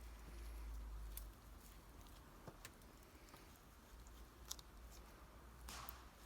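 A knife shaving fatwood: faint sharp ticks and scrapes, with one longer scrape near the end, over a low steady hum.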